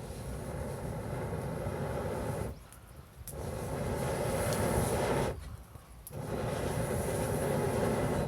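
Rushing, rumbling air noise in three long bursts of about two and a half seconds each, with short breaks between.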